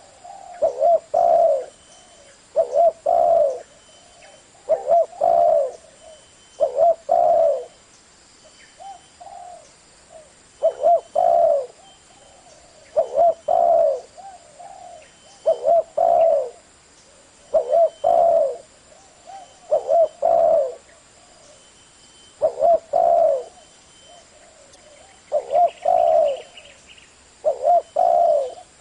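Spotted dove cooing: repeated phrases of low, throaty coos, each a few notes long, about one phrase every two seconds.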